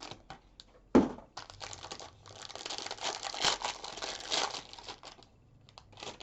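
Foil trading-card pack wrapper being torn open and crinkled in the hands, with a sharp knock about a second in and a few light clicks near the end.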